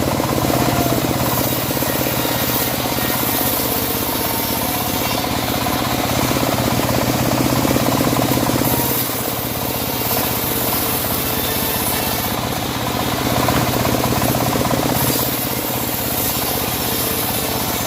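Homemade bandsaw mill running steadily as it saws a teak log: a steady motor hum under the continuous noise of the blade cutting, swelling slightly now and then.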